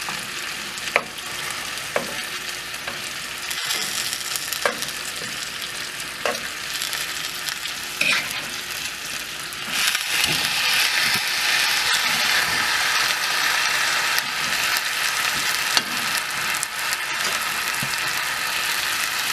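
Moose roast and vegetables sizzling in a cast iron skillet, with occasional clicks and scrapes of metal tongs and a wooden spoon against the pan. The sizzle grows louder about halfway through, as the roast goes down into the hot pan.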